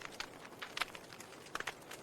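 Burning wood crackling in a fireplace: irregular sharp pops and snaps over a soft steady hiss, with small clusters of pops about a second in and again near the end.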